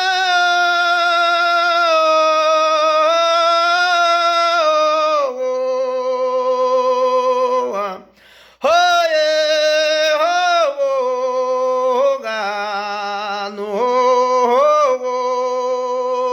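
A man's voice singing a Northeastern Brazilian aboio, the cattle-herder's call-song, on long held notes without words. The notes are drawn out for seconds at a time and step down in pitch, with a short break for breath about eight seconds in and swoops up and down after it.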